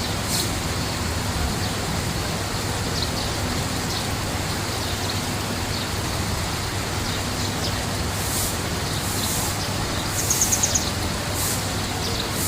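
Small birds chirping over a steady rushing background noise; about ten seconds in, one bird gives a quick run of about six high notes.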